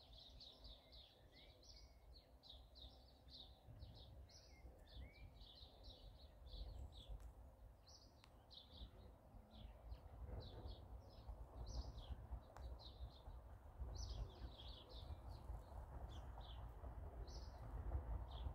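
Faint, rapid high chirps of small birds repeating throughout, over a low rumble that grows louder in the second half.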